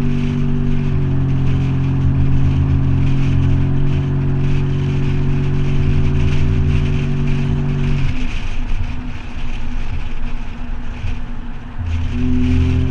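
Toyota 4Runner engine running through a Flowmaster 40 Series exhaust at steady revs, a steady drone. About eight seconds in the drone drops away, leaving a rougher, quieter noise, and it comes back near the end.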